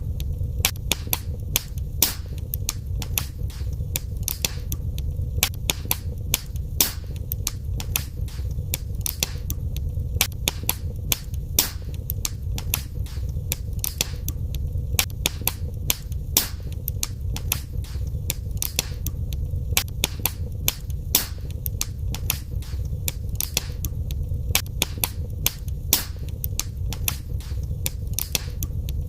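Wood fire crackling in a fireplace: irregular sharp pops and snaps several times a second over a steady low rumble of the flames.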